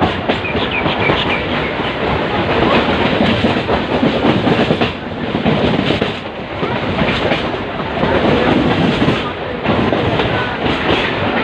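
Indian Railways train running on the rails: a continuous rumble with the clatter of wheels over rail joints.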